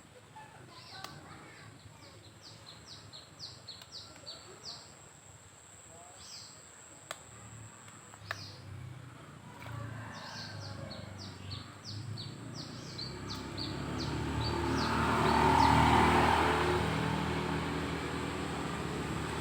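A bird calls in two quick runs of short, high, falling notes, over a thin steady high tone that stops about eight seconds in. From about thirteen seconds in, an engine grows louder, loudest a few seconds later, then eases off as it passes.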